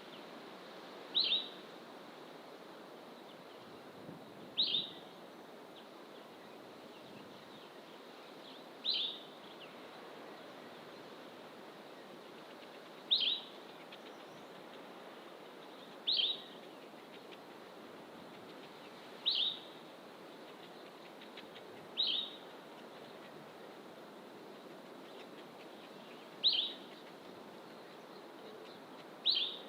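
A bird repeating one short, high, falling call note about every three to four seconds, nine times in all, over a steady low background rush.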